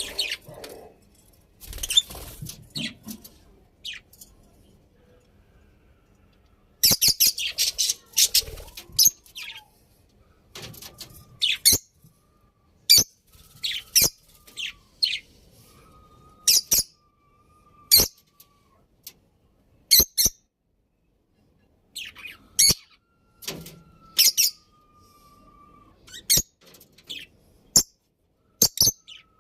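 Budgerigars chirping in short bursts of quick high-pitched chirps with pauses between, mixed with a few sharp clicks.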